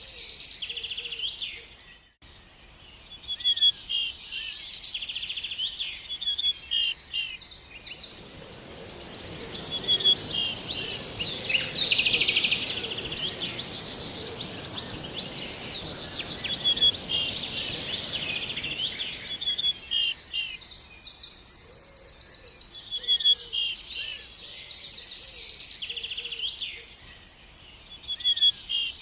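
Songbirds singing, with rapid trills and runs of short repeated chirps. About a quarter of the way in, a steady hiss sets in under the song, and it stops a little past two-thirds of the way through.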